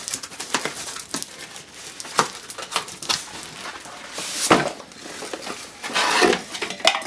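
Cardboard packaging of a model being handled and opened by hand: scattered knocks, scrapes and rustles, with a louder scraping rustle about four and a half seconds in and another near six seconds.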